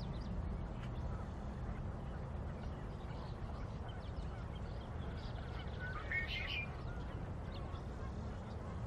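Outdoor ambience: a steady low rumble with faint bird chirps in the background, and one short bird call about six seconds in.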